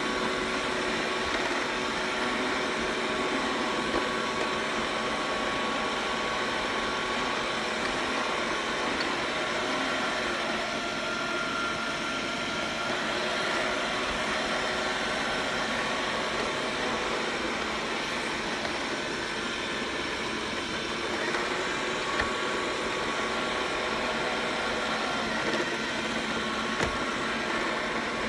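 Xiaomi robot vacuum cleaner running: a steady whir of its suction fan and brushes, with a few small knocks in the second half.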